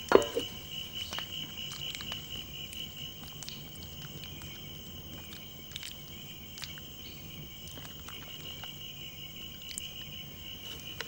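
Steady cricket-like insect trilling as ambience, with a sharp knock just after the start and scattered faint clicks.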